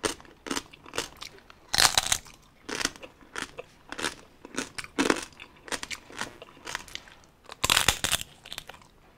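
Crisp lechon (whole roast pig) skin being bitten and chewed close to the microphone: an irregular run of sharp crunches and crackles, with loud bites about two seconds in and near the end.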